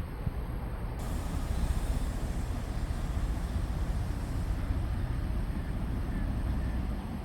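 Railway locomotive moving on a heritage line, a steady low rumble with a hiss coming in about a second in.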